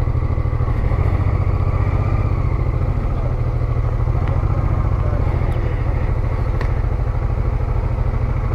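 Honda Transalp 650 V-twin motorcycle engine running steadily at low revs, an even low throb that holds at one pitch.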